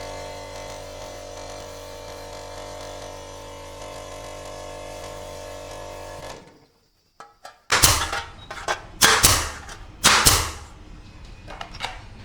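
A restored high-pressure air compressor running with a steady hum for about six seconds, then stopping suddenly. After a moment's silence come several loud, short bursts.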